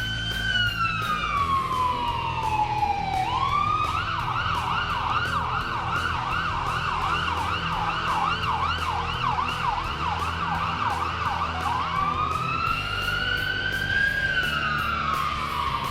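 Emergency vehicle's electronic siren: a slow falling wail, switching after about three seconds to a fast yelp of quick up-and-down sweeps for about eight seconds, then back to a slow wail that rises and falls. Underneath is a steady low rumble of vehicle noise.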